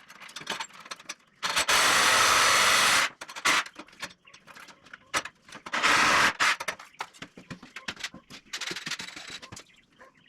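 A power tool runs in two bursts, one about a second and a half long and a shorter one a few seconds later. Scattered clicks and knocks of tools and wood being handled fall between them.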